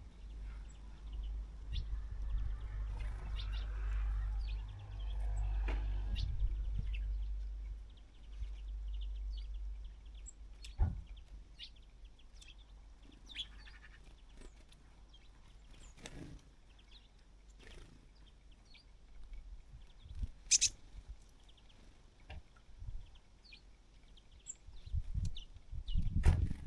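Small birds chirping at a winter bird feeder, with short high calls scattered throughout. A low rumble fills the first eight seconds, and a few sharp knocks come later.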